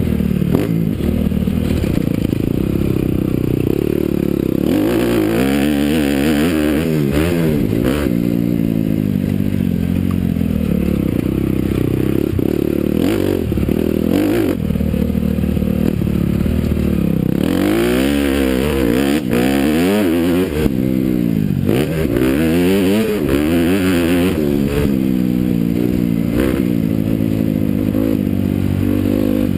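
Honda CRF250R motocross bike's single-cylinder four-stroke engine revving hard and easing off over and over, its pitch rising and falling every few seconds as it is ridden around a dirt track.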